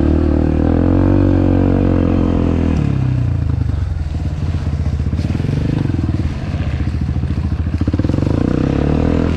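Dirt bike engine running hard as it is ridden. The revs hold steady for about three seconds, then drop and climb again, with a fast pulsing beat in the later seconds.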